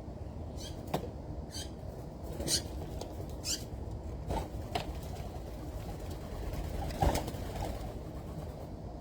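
Small birds calling at a feeder: short high notes that slide downward, about one a second in the first half. A few sharp knocks sound in between, the loudest about seven seconds in, over a steady low rumble.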